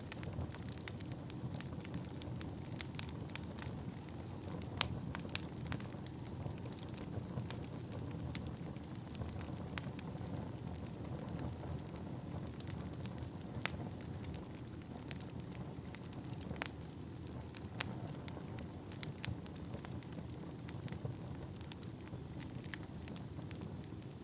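Wood fire burning in a fireplace: a steady low rush of flames with irregular sharp crackles and pops from the burning logs. A faint thin high whistle, slowly falling in pitch, comes in near the end.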